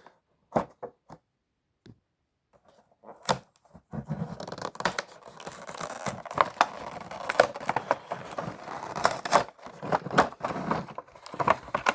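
Toy packaging being torn open and handled: a few clicks, a pause, then from about four seconds in a steady run of tearing, rustling and sharp crackles.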